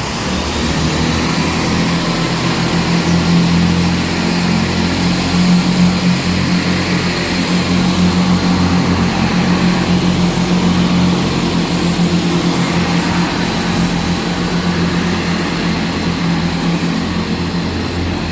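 Hitachi Class 800 bi-mode train running on its underfloor diesel engines, a steady low drone as it moves through the station. It starts about half a second in, is loudest in the middle and eases slightly near the end.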